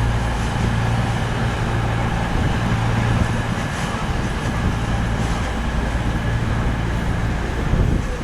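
Train standing at a station platform with its engine idling: a steady low hum.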